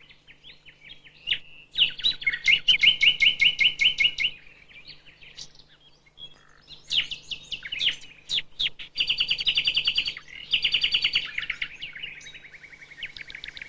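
Common nightingale singing: phrases of rapid repeated notes, one after another with short pauses between them, and a softer trill near the end.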